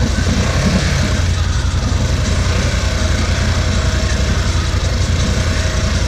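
Off-road side-by-side UTV engine running steadily, a dense low pulse with no revving up or down.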